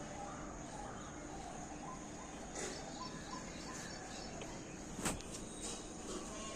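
Faint, scattered bird chirps over a steady outdoor hiss, with one sharp click about five seconds in.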